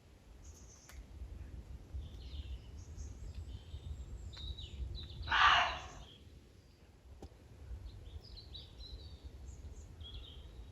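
Muntjac deer barking close by: a single loud, short bark about five and a half seconds in. Small birds call faintly throughout.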